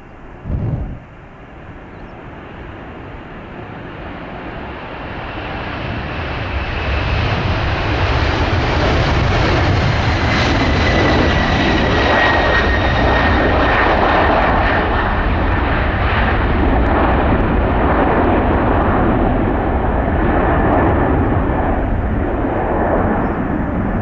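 Boeing 767-300 twin-engine jet departing at takeoff thrust: a deep engine rumble and roar swells, holds loud with a whine that falls in pitch as the aircraft passes, then starts to fade near the end. A brief low thump comes just after the start.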